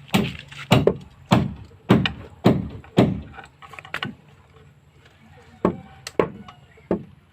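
Tool striking wood in a steady rhythm, about six blows roughly every 0.6 s, then a few more spaced-out blows in the second half.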